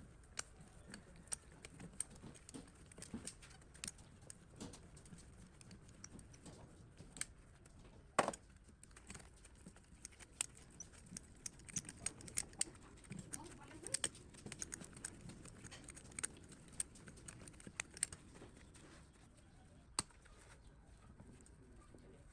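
Irregular light clicks and taps of metal parts and hand tools being handled, with one louder knock about eight seconds in.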